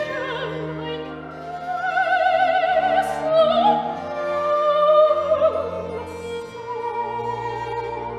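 Classical music: a sung line with wide vibrato over sustained bowed-string accompaniment and a held bass note.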